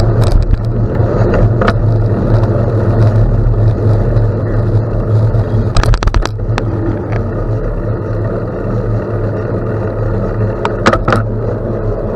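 Steady low rumble of wind on the microphone and bicycle tyres rolling over a gravel road, with a few sharp clicks and rattles about halfway through and again near the end.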